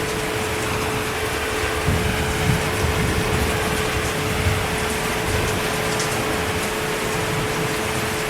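Steady heavy rain, an even hiss, over a low rumble that swells and fades, with a constant steady hum underneath.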